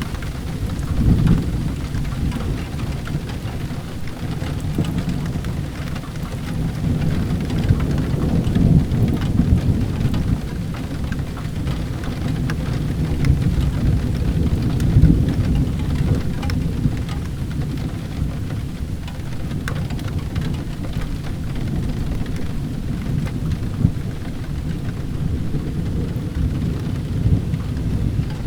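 Steady heavy rain with a deep rolling rumble of thunder that swells and fades several times, under scattered small crackles of a wood fire in a fireplace.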